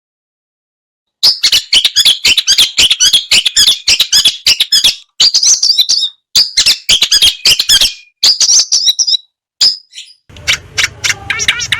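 Long-tailed shrike (cendet) singing a fast, dense run of harsh chattering notes in several bursts, starting about a second in. Near the end it is cut to a different recording of rapid, evenly repeated ringing bird notes over a low background rumble.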